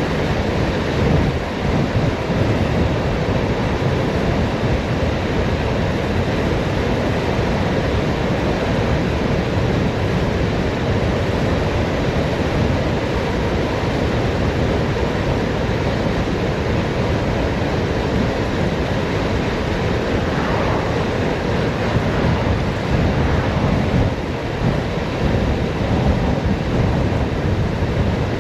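Steady wind rushing over the microphone with road rumble from riding downhill at speed.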